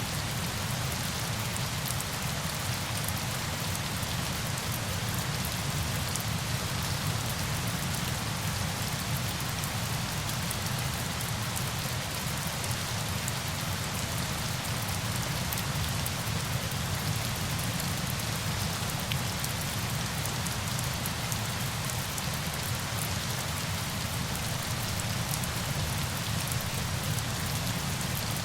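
Steady, unchanging rush of falling water, an even hiss with a low rumble beneath it and fine patter on top.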